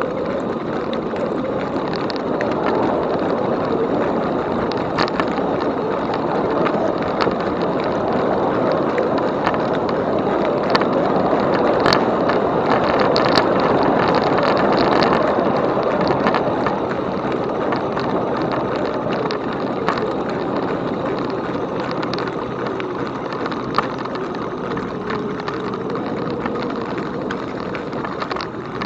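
Steady rushing noise of an e-bike ride: wind on the microphone and tyres rolling on the trail, swelling a little midway, with scattered light clicks and rattles.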